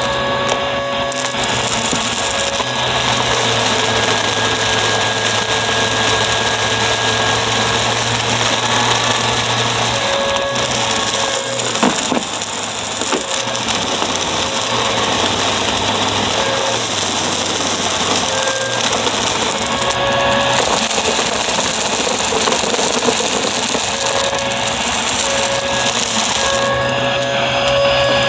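Upright vacuum cleaner running continuously, a steady motor whine whose low hum shifts slightly in pitch every few seconds, with a brief click about halfway through.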